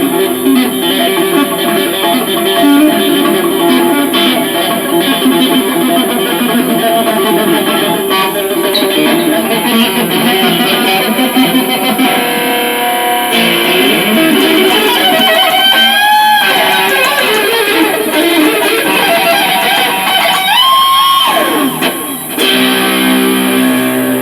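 Electric guitar played loudly through an amplifier in a sound check, steady riffing with a few bent notes whose pitch swoops up and back, one about two thirds of the way through and another near the end.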